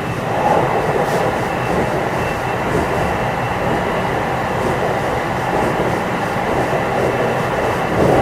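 JR West 227 series electric train (Hitachi IGBT VVVF inverter) running between stations, heard inside motor car KuMoHa 227: steady wheel and track noise with a faint steady high whine, getting a little louder near the end.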